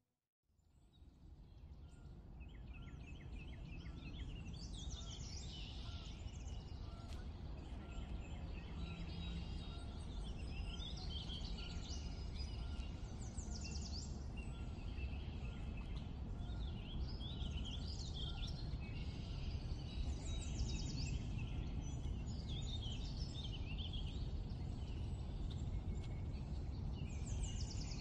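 Woodland ambience fading in over the first few seconds: many birds chirping and trilling throughout, over a steady low rumble.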